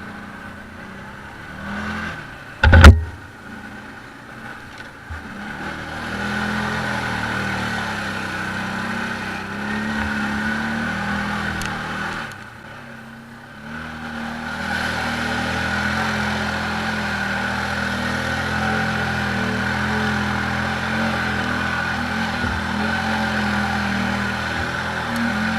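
ATV engine running steadily as the quad drives off. It eases off briefly in the middle and then picks up again. A single loud sharp knock comes about three seconds in.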